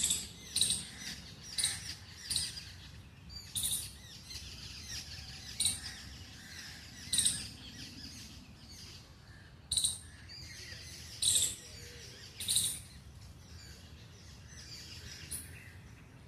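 Small birds chirping: short, sharp high-pitched calls repeated irregularly, about every one to two seconds, over a faint steady low background hum.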